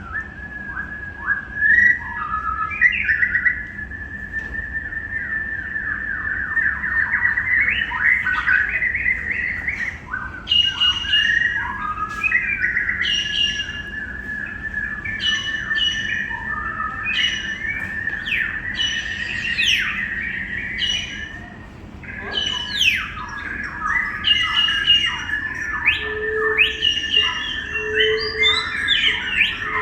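Birds chirping and squawking, many short calls overlapping over a steady high whistling tone.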